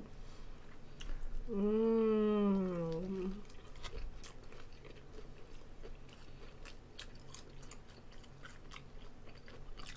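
Soft chewing of a corn dog and a hamburger, with scattered small wet clicks and crunches. About one and a half seconds in, a single long hummed "mmm" of enjoyment rises and falls in pitch.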